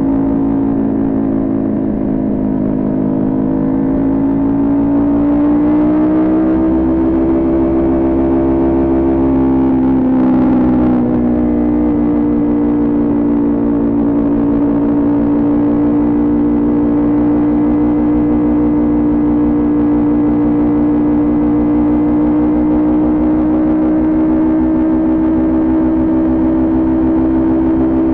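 Kawasaki Ninja 400 parallel-twin motorcycle engine running under way at steady high revs. The pitch climbs a few seconds in, dips briefly about ten seconds in, then holds even while cruising.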